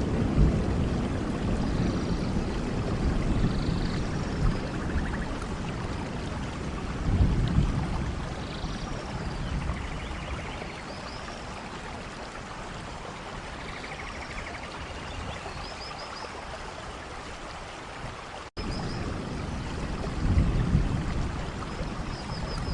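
Rain-forest ambience: steady rain with running, pouring water, low gusty swells, and short high chirps from birds here and there. The sound cuts out for an instant about 18 seconds in, then resumes a little louder.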